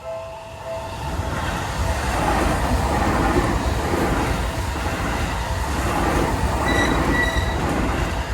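Seibu line train passing through a Japanese railroad crossing. The crossing bell's repeating ding is heard at the start and is drowned within about a second by the rising rumble and rush of the train going by. A brief high squeal comes about seven seconds in.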